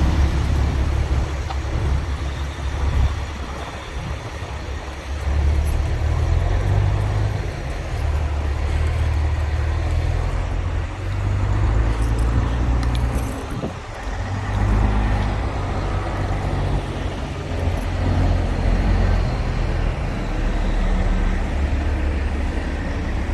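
Truck engines running with a low rumble that rises and falls.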